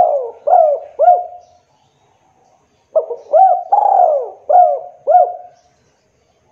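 Spotted dove (tekukur) cooing. One phrase of coos ends about a second and a half in, and a second phrase of about five coos follows a second or so later.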